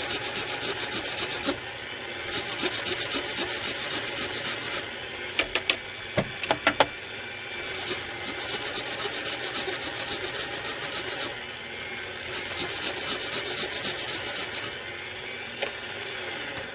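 Sandpaper rubbing fast and repeatedly against a leather pool-cue tip, wearing down the overhang of a newly glued Kamui Super Soft tip. The scratchy strokes stop and start several times, with a few sharp clicks about five to seven seconds in.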